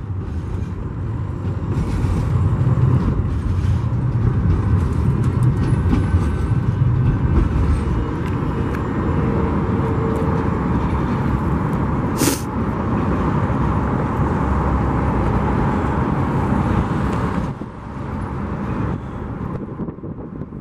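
Union Pacific freight train of empty flatcars rolling past, a steady rumble of steel wheels on rail. There is one sharp clank about twelve seconds in, and the rumble eases near the end.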